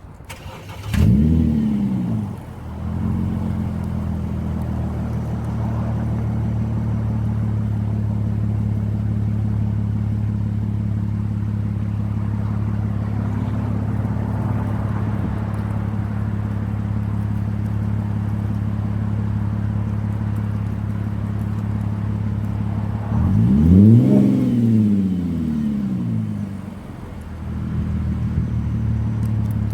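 2008 Audi A6 Avant wagon's engine through a rear-muffler-delete exhaust that still has its mid mufflers. It comes to life about a second in with a rev that rises and falls, idles steadily, then is revved once more, rising and falling, before settling back to idle near the end.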